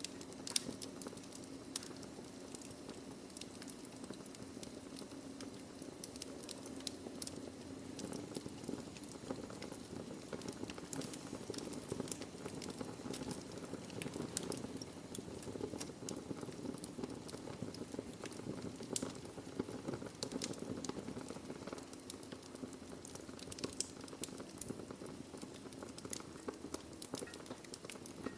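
Wood fire burning in a fireplace: a steady low hiss and rustle with irregular sharp crackles and pops from the burning logs.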